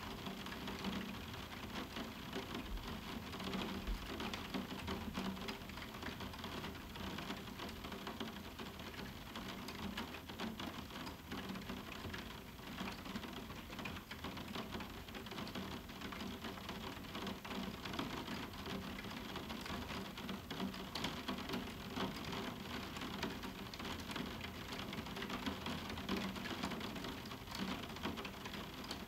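Moderate summer rain falling on a roof window: a steady, dense patter of many small drops striking the window, with no thunder.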